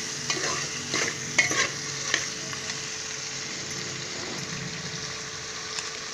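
Mutton masala with tomato and onion frying in a pressure-cooker pot, a steady sizzling hiss. A steel ladle stirs and scrapes through it with several short strokes in the first two seconds.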